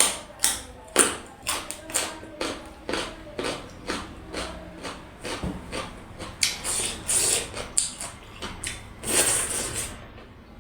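Close-up eating sounds: a person chewing and smacking a mouthful of dhido and goat meat, a quick run of wet clicks several times a second, with a few longer hissing sounds in the second half.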